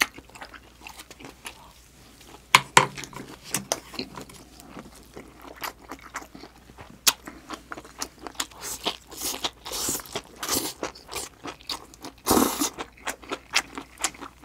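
Close-up eating sounds from a clip-on microphone: a person chewing and biting food, with many short, sharp wet clicks and crunches that come thicker in the second half and one louder, longer burst about twelve seconds in.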